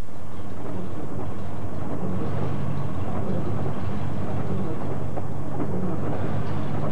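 Car engine running steadily, with a noisy rain hiss over it.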